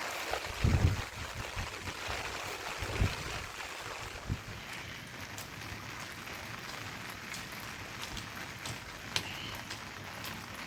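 Steady rain with scattered sharp drips, and a couple of low thumps in the first few seconds.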